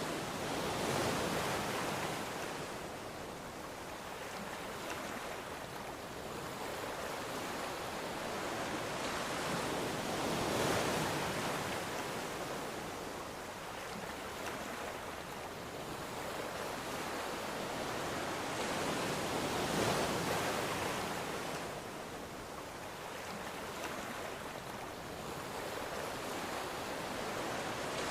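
Ocean waves breaking and washing up on a shore, the surf swelling and easing back in slow surges about every nine to ten seconds.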